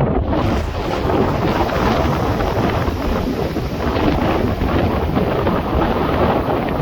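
Gale-force wind buffeting the microphone over steady, heavy surf on a stormy sea.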